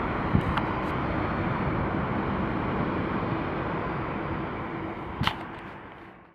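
Steady, rushing jet engine noise from the Boeing 757-200 climbing away after takeoff, fading out over the last two seconds. Two sharp clicks come about half a second in and about five seconds in.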